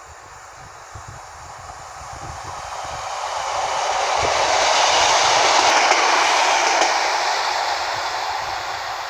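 A passenger train passing along the line. Its noise builds, peaks about five to six seconds in, then fades as it goes by.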